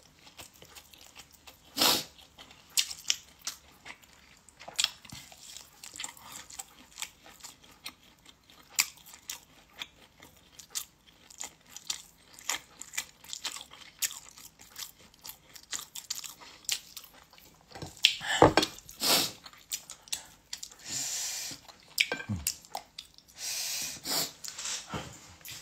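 A person eating by hand close to the microphone: chewing with wet mouth clicks and smacks. A few louder knocks and rustles come about three quarters of the way through.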